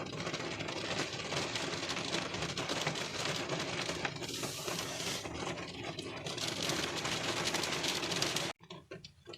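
Rain pattering on a car windshield, heard from inside the car: a dense, even rush of tiny drop impacts. It cuts off suddenly near the end, leaving fainter, sparser taps.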